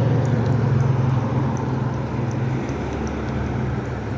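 Street traffic: a motor vehicle's engine running close by, a steady low hum that is loudest for the first couple of seconds and then fades a little as it moves off.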